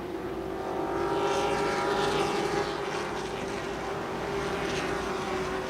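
Race truck engines running at speed on a short oval track, with the pitch sweeping as trucks pass by. Loudest about two seconds in.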